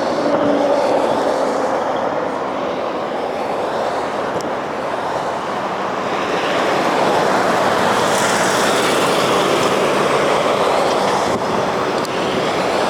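Light rail train running on the tracks: a steady rumble and wheel-on-rail noise that swells about halfway through.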